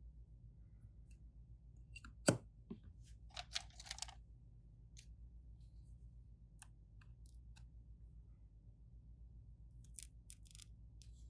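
Scattered small clicks and taps of hand tools on a phone during a screen repair. There is one sharper click about two seconds in and a short scratchy cluster of clicks a little later, over a low steady hum.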